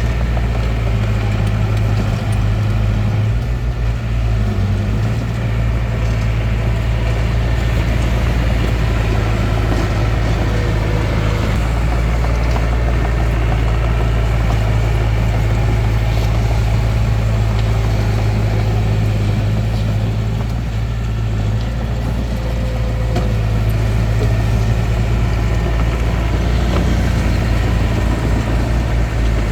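Hitachi DX45M bulldozer's diesel engine running steadily with a deep hum, the engine note dipping briefly a couple of times.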